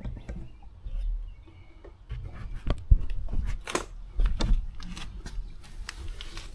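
Irregular light clicks, taps and rubbing of tools and parts being handled, with a sharper knock about three seconds in and a few more soon after.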